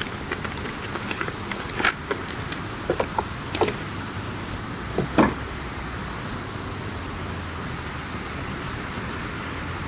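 Wood campfire crackling: scattered sharp pops and snaps over a steady hiss, clustered in the first half, with the loudest pop about five seconds in, then mostly just the steady hiss.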